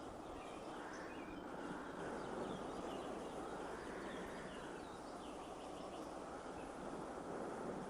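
Outdoor ambience: a steady hiss with small bird chirps scattered through it.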